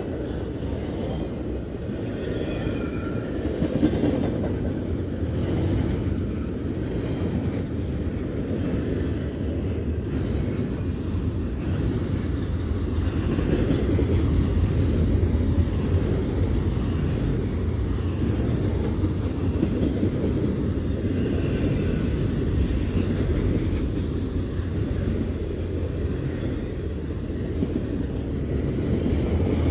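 Double-stack intermodal freight train's cars rolling past close by: a steady rumble of wheels on rail, with faint high squeals now and then.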